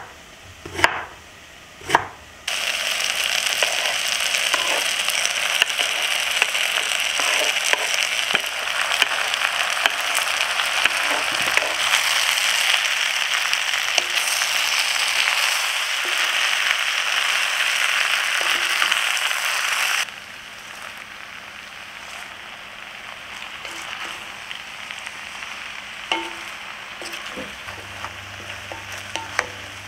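Three knife chops on a wooden cutting board. Then sliced potatoes and carrots sizzle loudly as they fry in a pot, stirred with a wooden spoon. About twenty seconds in, the sizzle cuts off sharply to much quieter stirring of the vegetables, with a few light clicks of the spoon.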